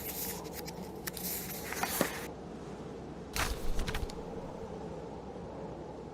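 A paper book page being turned, rustling in two bursts within the first four seconds: a longer sweep, then a short flip that lands with a soft thud. Under it runs a steady, low bed of blizzard wind and fire.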